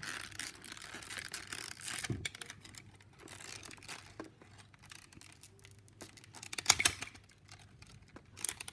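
Tightly wrapped packaging around die-cast model aircraft parts being crinkled and torn open by hand: irregular rustling and small crackles, with a louder burst of crackling about seven seconds in.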